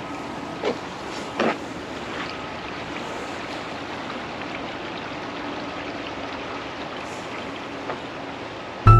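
Steady rushing outdoor background noise, with two short knocks about a second in. Music with piano starts suddenly at the very end.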